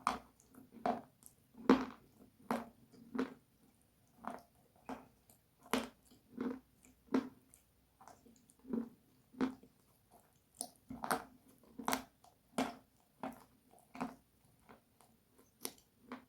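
Close-miked crunching as a person bites and chews something hard and brittle, about twenty sharp crunches at a steady, unhurried pace, with a short pause about halfway through.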